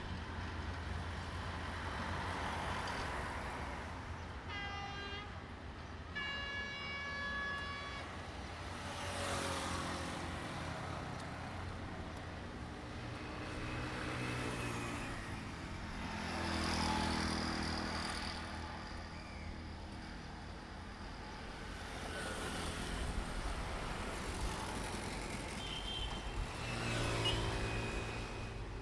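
Train horn sounding twice, a short blast then a longer one of about two seconds, followed by engine noise that rises and falls several times.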